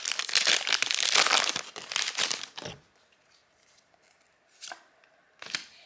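Foil wrapper of a Pokémon TCG booster pack crinkling and tearing as it is opened, for about the first two and a half seconds. Then it goes quiet except for a couple of faint ticks near the end.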